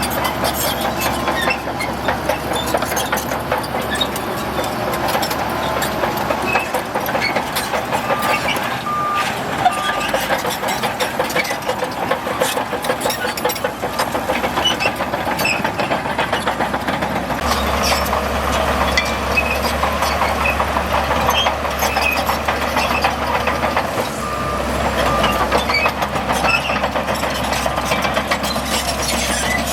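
Heavy diesel earthmoving machinery working, its engine running steadily. A reversing alarm gives a few short beeps about eight seconds in and again about twenty-four seconds in.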